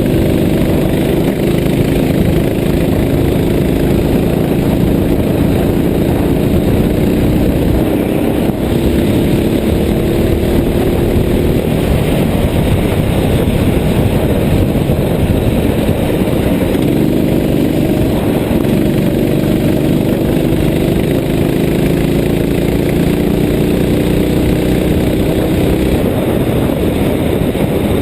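Vehicle engine running steadily, its pitch rising slowly as it pulls away, easing off around the middle, then rising again near the end.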